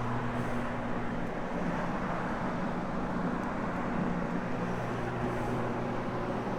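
Electric carpet-cleaning floor machine running steadily, its hog's hair fibre pad scrubbing the carpet: an even motor hum.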